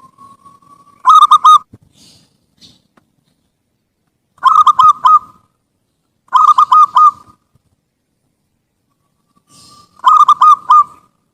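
Zebra dove (perkutut) singing: four phrases, each a quick run of rolling coos, with a softer drawn-out note leading into some of them.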